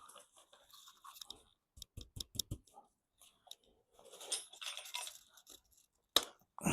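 Hand work on metal engine parts as a stuck part is worked loose: a quick run of clicks about two seconds in, a stretch of scraping, then sharp knocks near the end.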